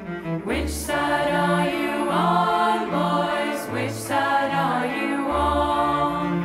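Choir singing sustained chords over bowed cello. The voices come in about half a second in and swell again around four seconds, while the cello keeps up low notes underneath.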